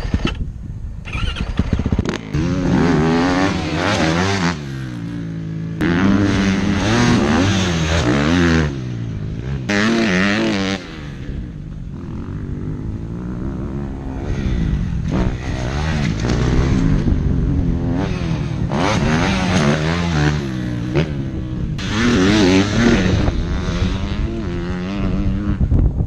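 Motocross dirt bike engine revving hard and easing off again and again, its pitch climbing and dropping as it is ridden around the track.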